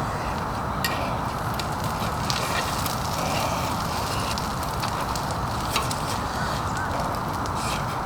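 Steady noise of heavy rain and wind, with scattered ticks and taps of drops hitting something.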